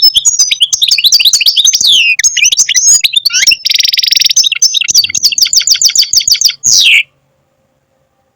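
European goldfinch singing: a fast twittering song with a harsh buzzy note in the middle and a quick run of repeated notes, ending on a falling note about seven seconds in.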